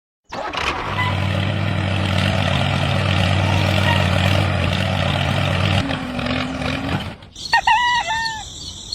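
Tractor engine running steadily at an even speed, stopping about six seconds in. A short steady tone follows, then a few quick high chirps near the end.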